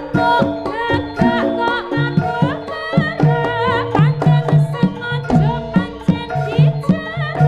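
Javanese jaranan music: kendang hand-drum strokes in a quick, steady rhythm under sustained pitched tones and a high, wavering, ornamented melody line.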